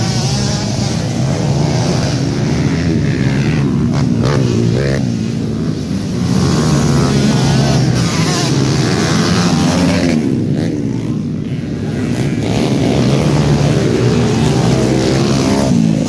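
Dirt bike engines racing on a motocross track, revving and running loud, with the pitch rising and falling as they are throttled.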